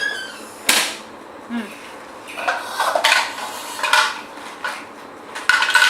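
Small plastic items clattering and rattling against a plastic toy garbage truck and container, in several short bursts, with a sharp click a little under a second in.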